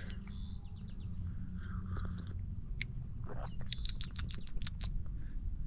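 A small bird gives a quick run of four high chirps about half a second in, with one more short note near the middle. Scattered small clicks and smacks follow near the end, all over a low steady rumble.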